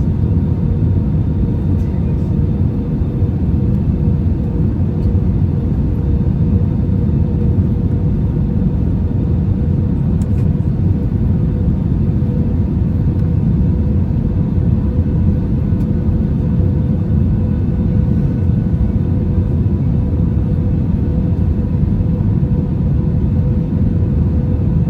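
Airbus A320-200 cabin noise in flight on the way down to land: a steady low rumble of airflow and engines with a faint even hum over it.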